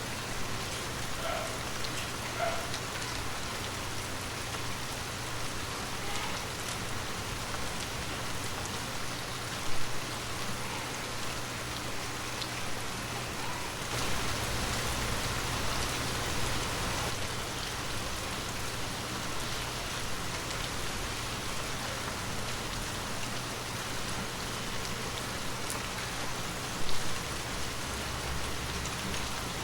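Heavy rain falling steadily, an even hiss of drops on surfaces. There is a brief louder hit about ten seconds in and another near the end.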